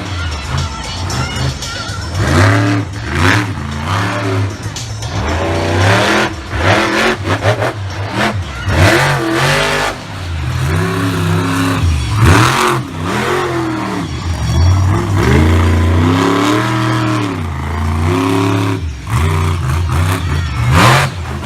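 Monster truck engines revving hard, the pitch sweeping up and dropping back again and again.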